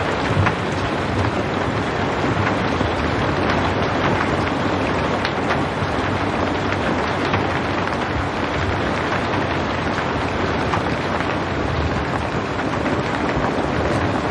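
Steady rain falling, a dense even patter of drops on a surface with a low rumble underneath and no thunder.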